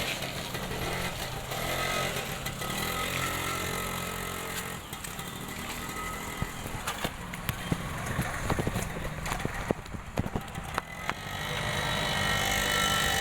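Small two-wheeler engine running steadily under a child rider. The engine sound thins out in the middle, with a scatter of sharp clicks and knocks, then comes back fuller near the end.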